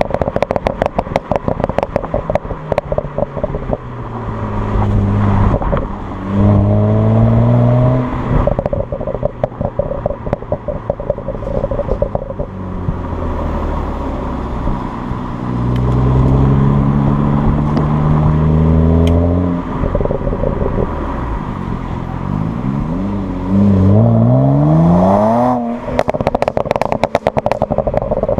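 BMW 335i's twin-turbo inline-six revving up hard several times, the pitch climbing through the revs, then popping and crackling on the overrun as the revs fall: the burble map of its MHD Stage 1 tune.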